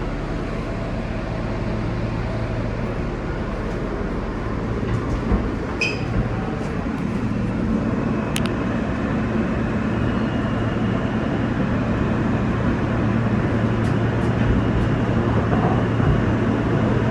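New York City subway train running through the tunnel, heard from inside the car: a steady rumble with a low hum and a few short clicks and squeaks from the wheels and car body, slowly growing louder.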